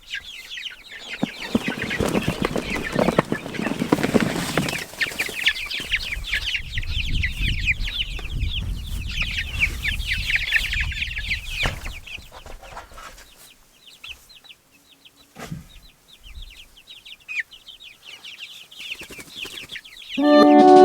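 A crowd of young meat chickens peeping together: many short, high, falling chirps overlapping, with a low rumble through the middle. The peeping thins out to scattered chirps after about twelve seconds.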